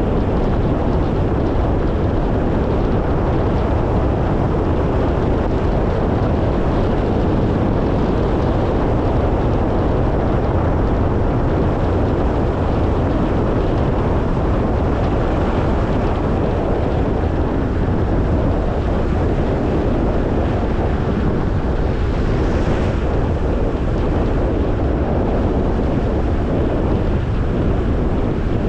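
Steady driving noise from a moving car: an even rumble of tyres on the road and engine, with wind noise on the microphone.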